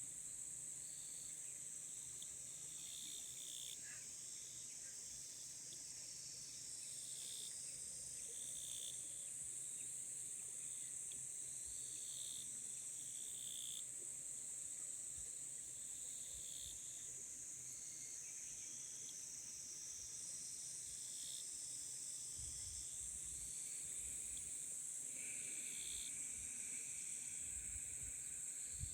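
A chorus of singing insects such as crickets: a continuous high-pitched trill under slower, lower chirps that repeat about once a second, joined near the end by another steady trill at a lower pitch. A few faint low rumbles come in near the end.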